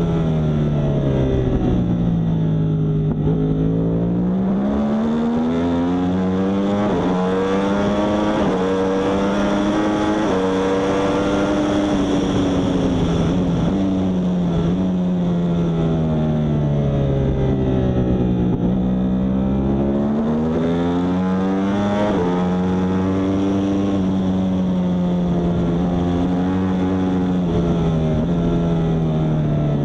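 Yamaha R1 superbike's inline-four engine at racing speed: the revs drop as it slows and downshifts, then climb again in a series of quick steps as it upshifts, three times over.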